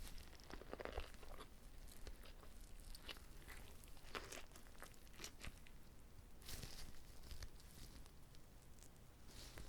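Close-miked eating of a whole uncut gimbap roll: bites tearing through the seaweed wrap and moist chewing, coming in irregular short bursts.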